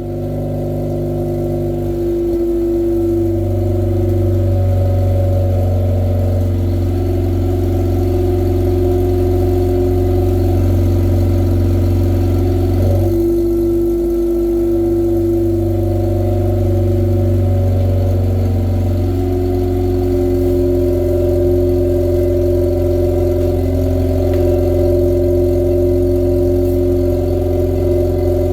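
Mazda RX-8's Renesis rotary engine idling steadily through a header, straight-piped mid-pipe and a newly fitted DNA Motoring axle-back muffler, with the idle note shifting slightly a couple of times. The new axle-back tones the idle down a lot.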